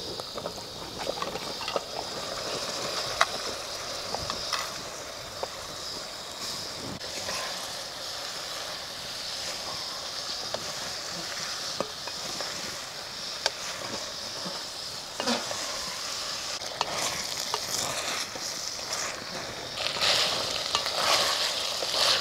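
Potato and cauliflower pieces sizzling as they fry in oil and spices in a steel pot, stirred with a wooden spatula that scrapes and knocks against the pot now and then. The sizzle and stirring get louder near the end.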